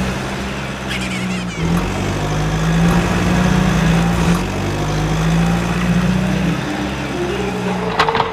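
Truck engine drone, steady and low, shifting in pitch a few times, with a couple of short clicks near the end.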